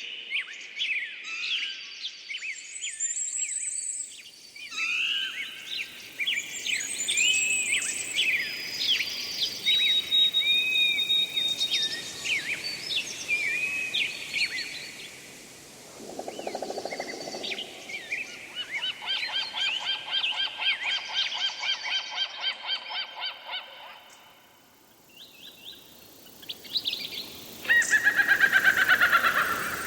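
Several birds singing and calling over one another: quick chirps, short whistles and trills. In the middle comes a stretch of fast repeated notes, and near the end a loud, falling trill.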